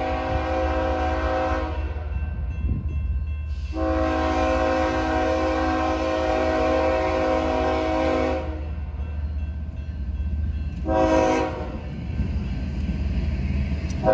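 BNSF locomotive air horn sounding a chord in the long-long-short-long pattern, a grade-crossing warning: a blast ending, a long blast, a short one, then another long one beginning, over the steady low rumble of the train.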